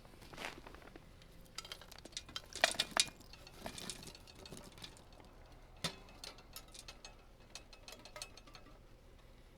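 Lumps of charcoal clinking and clicking against a metal charcoal extinguishing can as they are put away, in a scattered series of clinks with a loud cluster about three seconds in.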